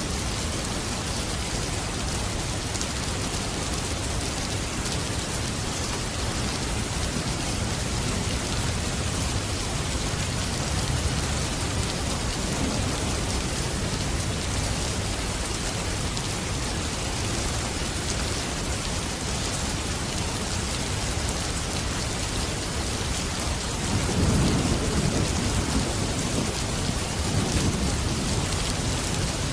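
Steady heavy rain falling, with distant thunder rumbling low about twenty-four seconds in and again near the end.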